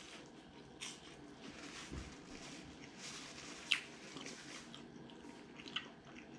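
A person chewing a mouthful of steak pie, with faint wet mouth clicks and smacks and one sharper click a little past halfway.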